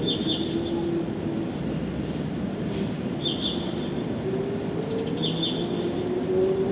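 Songbirds chirping in short, quick phrases that recur about every two seconds, over a steady low background rush.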